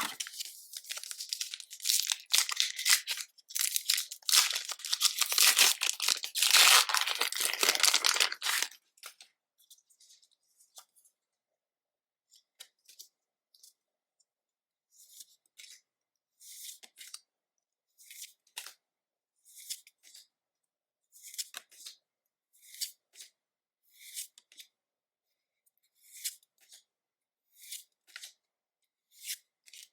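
Foil wrapper of a Pokémon trading card booster pack being torn open and crinkled for about the first nine seconds. After that come short, soft card rustles about once a second as the cards are slid off the stack one by one.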